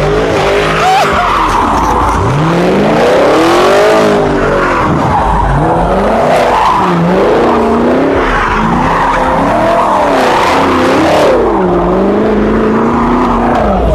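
A car engine revving up and down over and over, with tires screeching under wheelspin.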